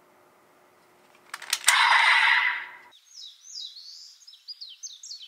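A short, loud noisy burst with a few sharp clicks comes about a second in. Then small songbirds chirp rapidly in quick high runs of falling and rising notes.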